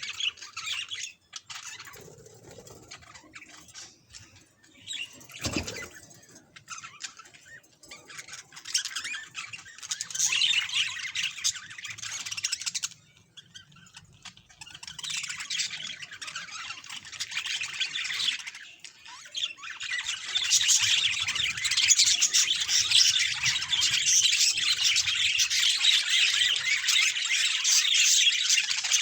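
Pet budgerigars chattering and chirping in quick, warbling bouts that grow louder and run on without a break in the second half. A single short knock comes about five seconds in.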